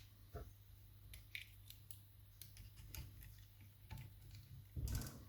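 Faint scattered metallic clicks and scrapes of lock picks working the levers inside a lever mortice lock, with a slightly louder brief scuffing noise near the end.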